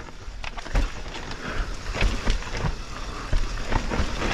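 Mountain bike rattling down a steep dirt trail: tyres scrubbing over soft, wood-chippy dirt with irregular knocks and clatter from the bike over roots and bumps.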